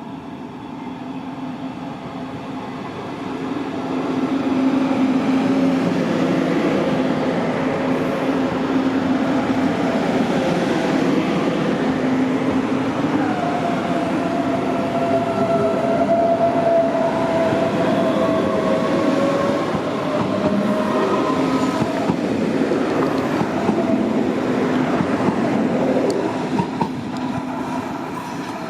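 A train passing through a railway station. It grows louder over the first four seconds and runs loudly with a steady hum and some higher gliding whines, then starts to fade near the end.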